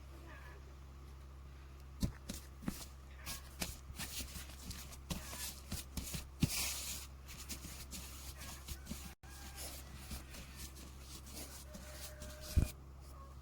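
Rustling and light clicks and knocks of things being handled by hand, starting about two seconds in, with one louder knock near the end, over a steady low hum.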